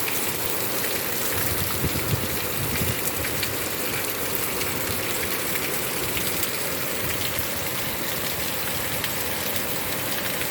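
Heavy rain falling steadily, with rainwater overflowing the downpipe and pouring off the roof.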